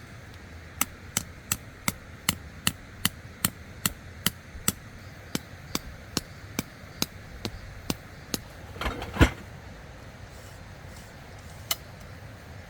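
A hammer striking in a quick, regular series of about twenty sharp blows, roughly three a second, then a louder clatter and one last knock near the end.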